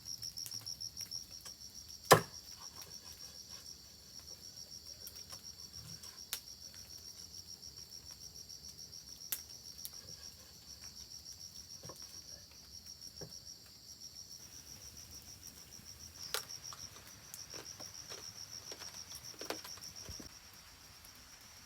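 An insect chirping in a fast, even pulse at a high pitch, stopping shortly before the end, with scattered sharp clicks, the loudest about two seconds in.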